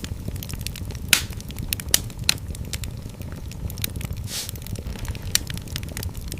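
Fireplace fire crackling, with scattered sharp pops, the loudest about a second in and around two seconds, and a brief hissing sputter a little past four seconds, over a steady low rumble of the flames.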